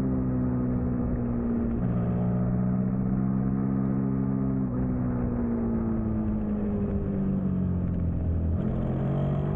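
Onboard sound of a 2003 Suzuki SV650's V-twin engine running hard at racing speed, over wind rush. Its pitch shifts abruptly about three times, with gear changes.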